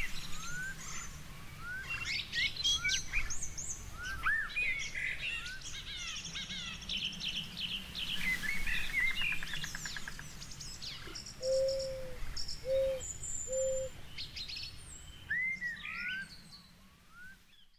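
Several birds chirping and singing together, many short rising calls and quick trills overlapping, with three short low hoots in the middle; the sound fades out near the end.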